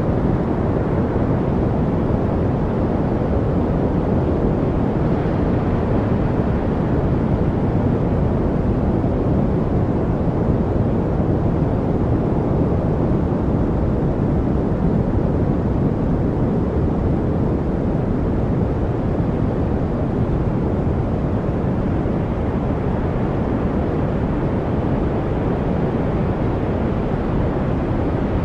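Steady, unbroken noise for studying, deep and rushing, with most of its weight in the low end and little hiss on top.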